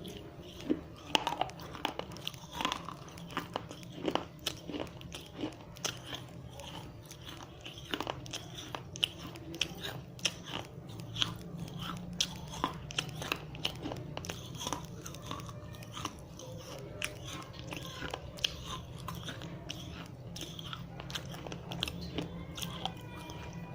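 Biting and chewing dry red clay diyas (small terracotta lamps): sharp, irregular crunches about once or twice a second as the fired clay cracks between the teeth, over a steady low hum.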